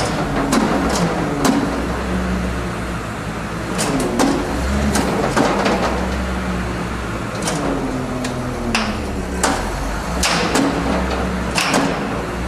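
A vehicle engine running with a low steady hum, with sharp metallic clanks and clicks at irregular intervals throughout.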